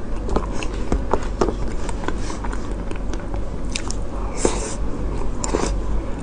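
Close-miked biting and chewing of a frozen dessert: a run of wet clicks, with two louder crunches about four and a half and five and a half seconds in.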